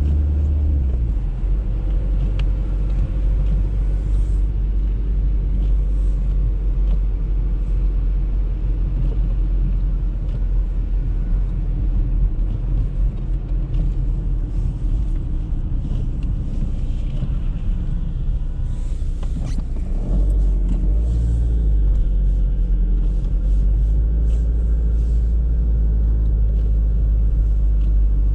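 Audi A3 on the move: a steady low rumble of engine and tyre noise, with the engine note shifting about a second in and again about two-thirds of the way through. Scattered light ticks come through, thickest in the later part.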